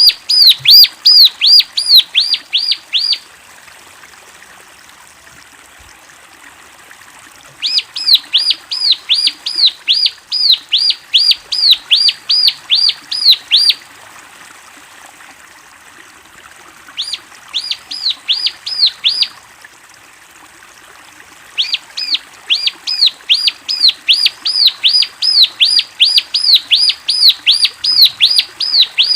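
Ciblek (bar-winged prinia) singing: four runs of quick, repeated high chirps, about five a second, each run lasting a few seconds and broken off by short pauses.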